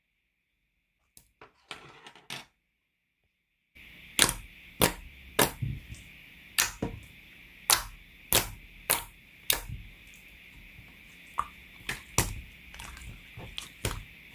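Clear slime being pressed and squeezed by hand, trapped air popping with sharp clicks. A few soft clicks come first, then from about four seconds in crisp pops about twice a second over a faint steady hiss.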